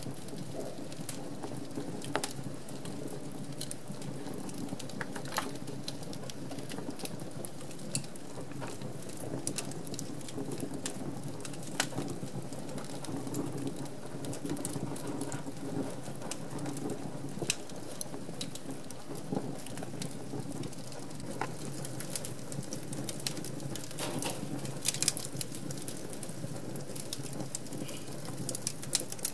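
Wood fire crackling in a fireplace: a steady low rush of flames with irregular snaps and pops, a few sharper pops standing out.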